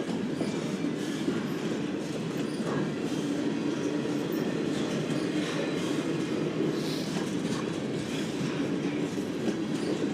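Slow-moving Norfolk Southern trash train, its freight cars rolling past close by with a steady rumble of wheels on rail and a faint wheel squeal.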